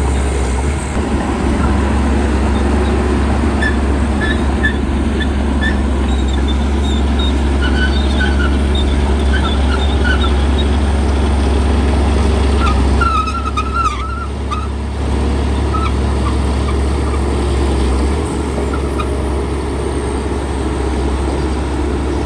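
Bulldozer diesel engine running steadily under work, a constant low drone, with short high-pitched squeaks over it in the first half and a brief dip in loudness about two-thirds of the way through.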